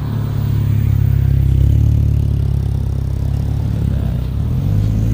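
Car engine running close by with a steady, deep rumble. Near the end its note shifts and begins to rise slightly.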